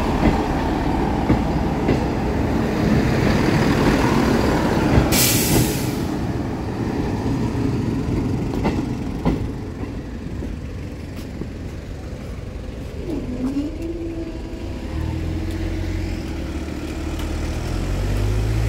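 Transport for Wales diesel multiple unit running over the level crossing, its engine and wheels rumbling, with a short sharp hiss about five seconds in; the rumble dies away. Near the end a low motor hum rises as the crossing barriers lift.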